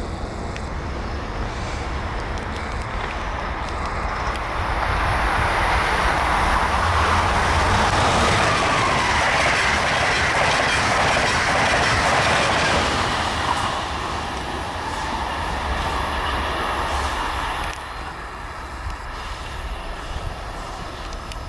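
SEPTA Silverliner IV electric multiple-unit train running on the rails, its wheel noise building to a peak in the middle and then fading.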